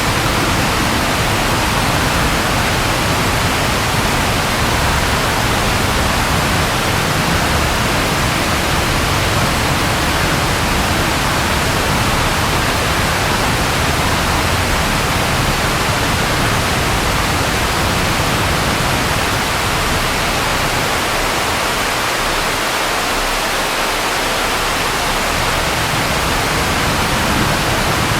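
Steady, even rain hiss over a low rumble. The rumble fades for a few seconds near the end, then comes back.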